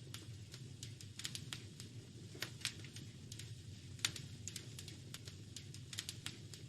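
Wood fire crackling in a fireplace: irregular sharp pops and snaps, a dozen or so, over a steady low rumble.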